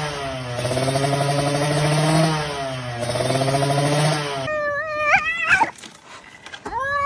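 A low, steady droning sound with a changing pitch runs for about four and a half seconds and stops suddenly. About a second later a cat gives a short rising-and-falling meow.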